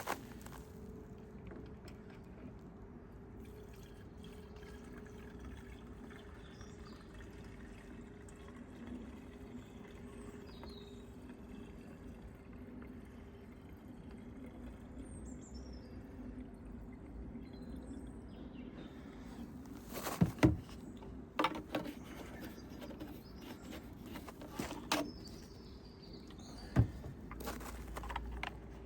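Petrol being poured steadily from a can into a petrol chainsaw's fuel tank, with faint birdsong. Several sharp knocks come in the last third.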